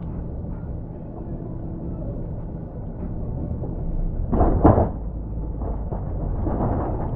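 Snowplow truck's engine running steadily at a low rumble. A loud, harsh burst of noise comes about four and a half seconds in, and a weaker one shortly after.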